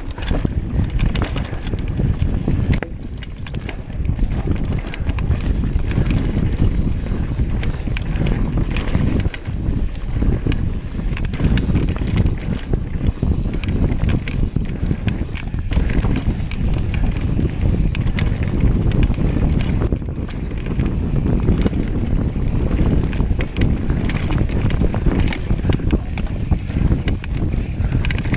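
Mountain bike riding a rough dirt trail: wind buffeting the microphone over tyre rumble, with frequent rattles and knocks from the bike over bumps.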